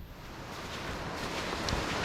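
A rider sliding fast through snow: a rushing hiss that grows steadily louder, with wind buffeting the microphone.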